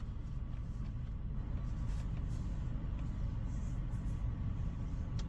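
Ryko Softgloss MAXX 5 soft-touch car wash working over the car, heard from inside the cabin: a steady low rumble with a few faint taps.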